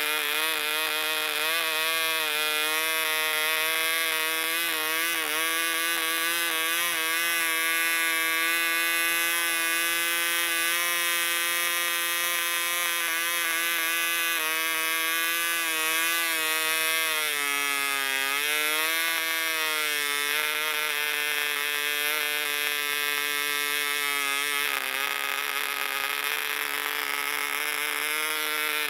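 Barbini B.38 1 cc model diesel engine running fast, swinging a 7x4 propeller: a high, steady buzz whose pitch wavers, sagging briefly about eighteen seconds in. The uneven running is that of a new engine not yet broken in.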